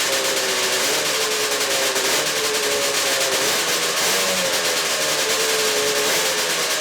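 1979 Ski-Doo Blizzard 440 snowmobile's two-stroke engine running steadily, its pitch wavering slightly up and down, with a loud hiss over it.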